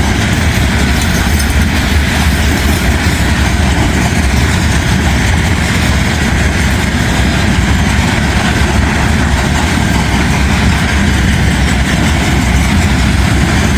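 Steel coil freight train rolling past, a steady loud rumble of wheels on rail.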